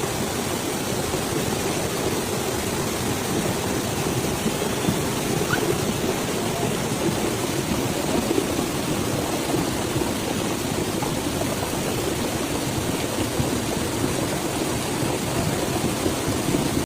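Steady rushing water noise from heavy storm rain and running water, even throughout, cut off suddenly at the end.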